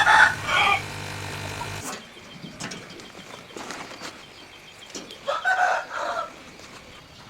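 A rooster crowing twice: once at the start and again about five seconds in. A low steady hum stops about two seconds in.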